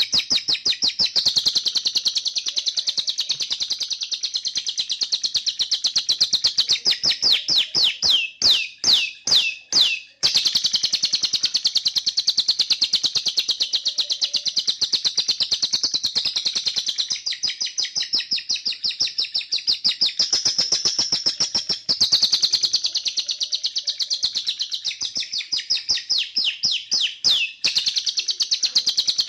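Canary singing continuously in fast trills and rolls of repeated high notes, with runs of slower, separate falling whistles twice along the way. This is a training recording of canary song meant for lovebirds to copy.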